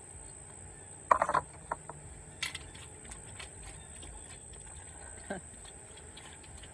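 Puppy lapping water in small irregular clicks, with a short loud squeaky burst about a second in and a steady high tone underneath.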